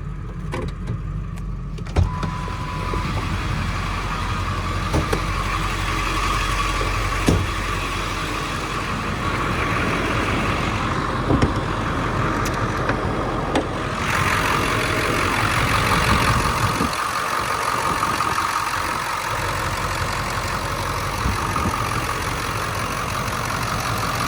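A 7.3 L Power Stroke V8 turbo-diesel idling steadily during a blow-by check, with a few sharp clicks. A hiss comes up about 14 seconds in. The owner finds absolutely zero blow-by, a sign of a healthy engine.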